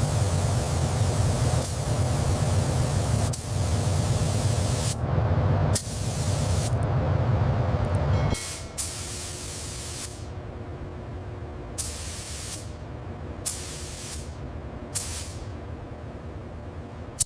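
Spraying hiss: a loud continuous spray with a low rumble under it, which stops about eight seconds in and gives way to short spray bursts roughly every second and a half, each trailing off.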